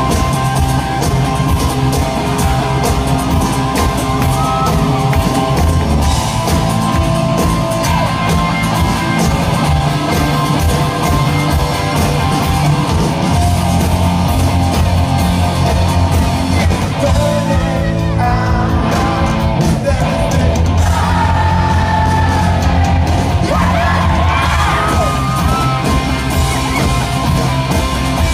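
Live rock band playing an instrumental passage with guitars, bass and drums, heard through a crowd recording in a large open venue, with audience members yelling and whooping over it.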